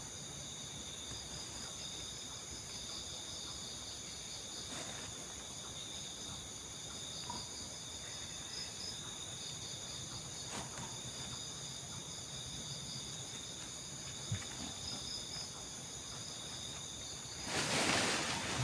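Insect chorus, crickets and the like, trilling steadily in several high-pitched bands. Near the end comes a brief, louder rush of noise.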